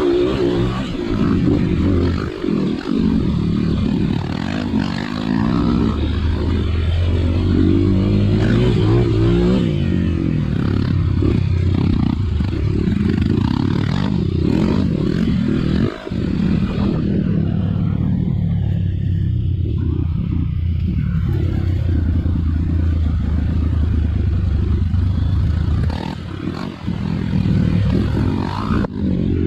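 Trail dirt bike engine running and revving unevenly under changing throttle, its pitch rising and falling, with occasional knocks.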